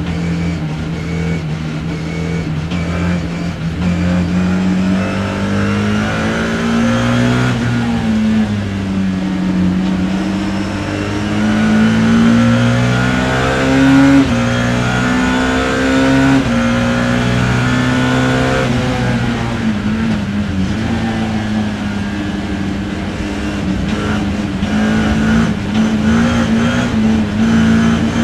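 BMW E30 M3's S14 four-cylinder race engine heard from on board, loud throughout, revving up and dropping back several times as the driver shifts through the gears and lifts for corners.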